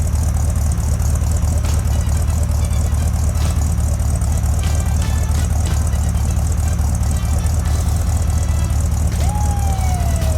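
Car engine running with a loud, steady low rumble. Near the end a falling whistle-like tone comes in over it.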